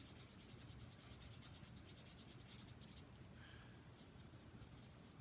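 Faint, rapid scratching of an alcohol-based marker tip swirled over card stock, blending a darker shade into a lighter one. The strokes thin out after about three seconds.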